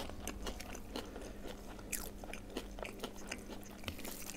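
Close-up eating sounds: a man chewing, with frequent small wet mouth clicks and smacks, while his fingers mix rice on a plate.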